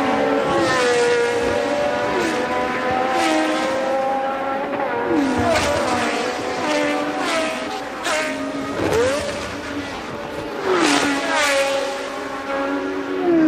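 1982 Formula One race cars' engines running at high revs as cars go by, the pitch dropping sharply several times and climbing once. The loudest pass comes about eleven seconds in.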